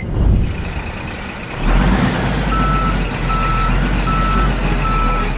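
Truck engine running with a rumble that swells up a couple of seconds in, joined by a reversing alarm beeping steadily, four single-tone beeps under a second apart.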